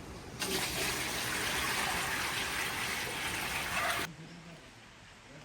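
Water gushing in a steady rush for about three and a half seconds, starting and stopping abruptly.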